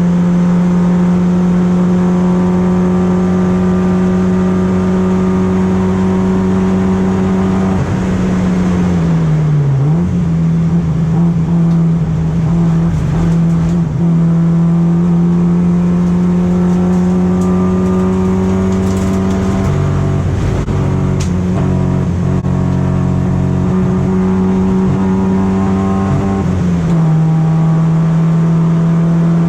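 BMW E36 race car engine running hard at high, fairly steady revs. The pitch dips and recovers about eight seconds in, then steps down again near the end. The car is under test for a misfiring and hesitation problem that is put down to fuel supply.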